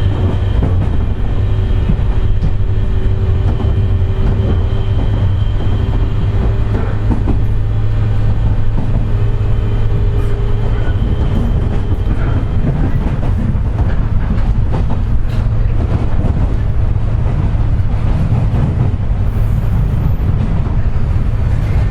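JR West 201 series electric train running, heard inside a motor car: a steady low rumble with thin whining tones over it. The recordist puts this car's loud jet-like whine down to electrically pitted traction motor bearings.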